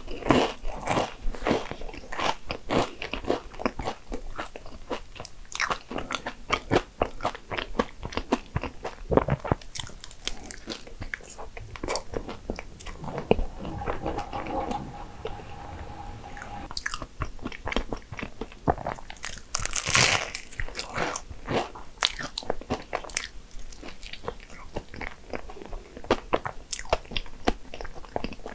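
Close-up chewing of a flaky, cream-filled Danish pastry: a quick stream of crisp crunches and wet mouth sounds, with one louder crunch about two-thirds of the way through.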